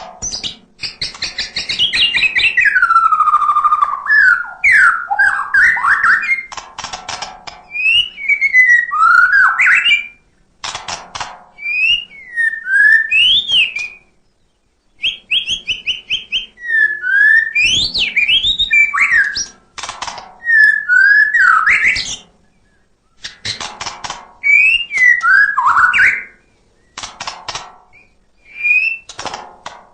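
White-rumped shama (murai batu) singing loudly in phrases of rising and falling whistles and rapid trills, separated by short pauses.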